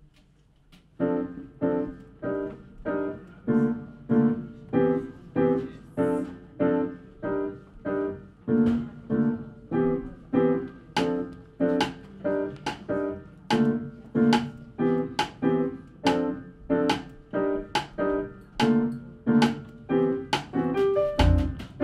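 Acoustic piano playing a jazz intro of repeated chords, about two strikes a second, beginning about a second in. A double bass joins with low notes right at the end.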